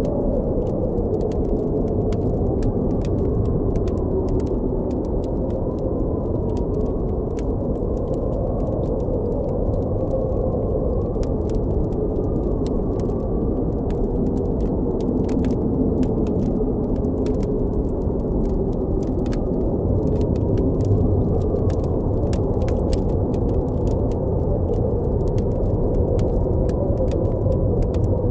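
Blizzard wind blowing steadily with a deep rumble and a faint wavering howl, over the scattered small crackles of a campfire.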